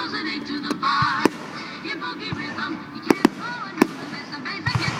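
Fireworks going off: about five sharp bangs spread through, two of them in quick succession, over a background of music and voices.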